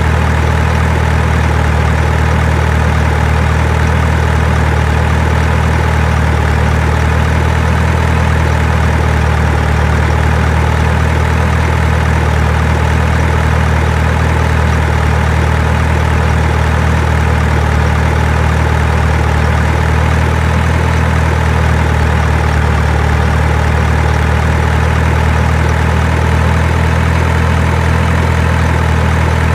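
Heavy diesel engine running steadily at one speed, a dense low drone that does not change.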